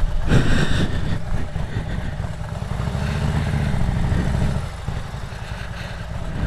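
Harley-Davidson Road Glide's V-twin engine running under way. It swells from about three seconds in and drops back about a second and a half later.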